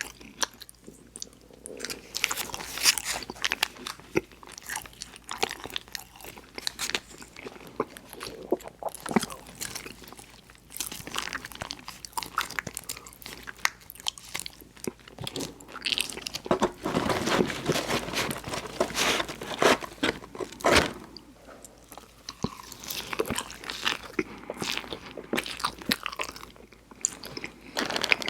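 Close-miked eating: crunchy bites and chewing mouth sounds. They come as many irregular crackles, busiest a little past the middle.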